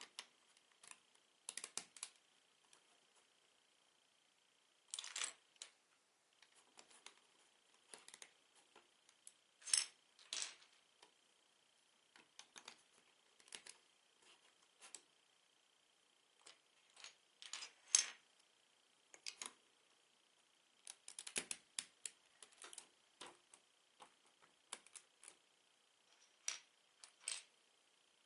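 Plastic Lego bricks clicking and clattering as pieces are handled, sorted and pressed together, in scattered single clicks and short rattling clusters. A faint steady high whine runs underneath.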